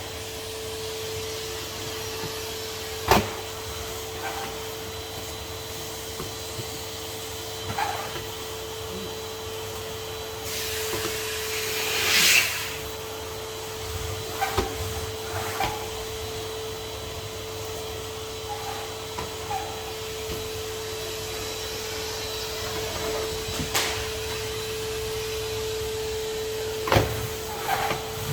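Henry HVR200 620 W tub vacuum cleaner running with a steady motor hum. Occasional sharp knocks sound, likely the tool hitting surfaces, and a louder hissing rush of suction comes about eleven seconds in.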